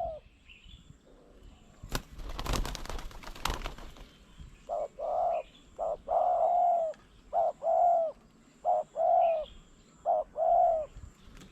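A dove cooing in repeated phrases of soft, clean coos, each a short note followed by a longer one. Before the cooing, about two seconds in, there is a brief burst of rustling or wing flapping.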